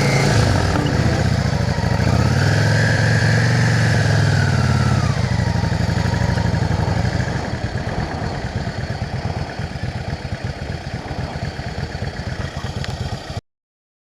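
Yamaha XVS650 V-twin motorcycle engine revving up and back down, then running at a lower, steady, pulsing beat. The sound cuts off suddenly near the end.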